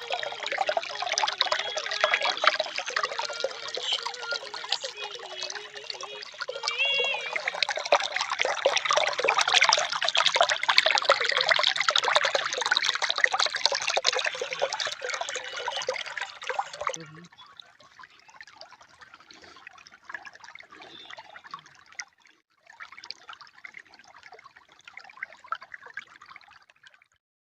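Water running and trickling, a dense rushing sound that cuts abruptly about two-thirds of the way in to a quieter, sparser trickle.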